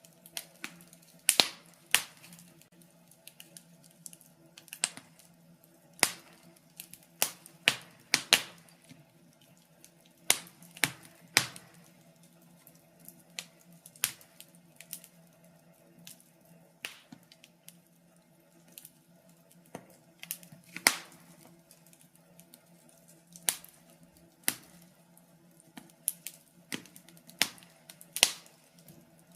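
Wood fire crackling: irregular sharp pops and snaps, about one or two a second and uneven in strength, over a faint steady low hum.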